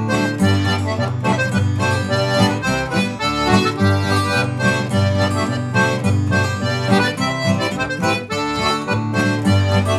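Traditional folk tune played on a melodeon with guitar accompaniment, a lively steady rhythm with held reedy chords over a bouncing bass.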